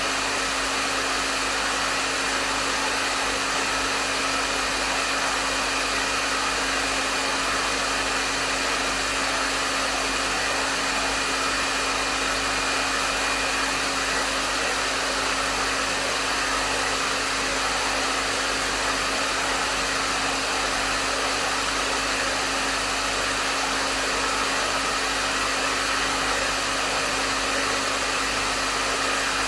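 Hair dryer running steadily, a continuous airy rush of blown air over a steady motor hum, with no changes.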